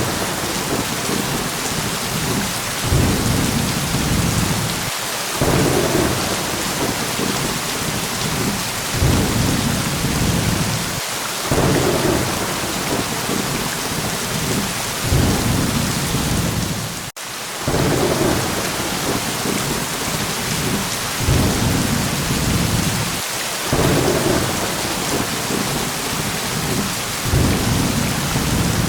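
Steady heavy rain hissing, with low rolling thunder rumbles swelling and fading every few seconds. The sound drops out for a split second about two thirds of the way through.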